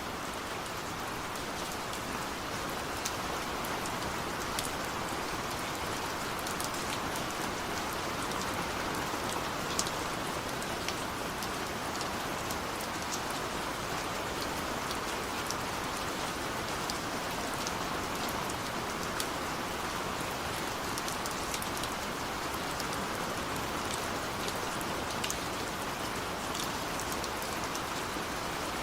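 Steady rain hissing, with scattered sharp drop ticks against a surface, the sound of rain on a window.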